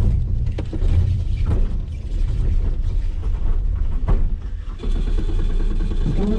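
Nissan Skyline's engine running unevenly at low revs, its loudness surging and dipping, with a few sharp knocks; the cold engine doesn't want to run cleanly and keeps stalling.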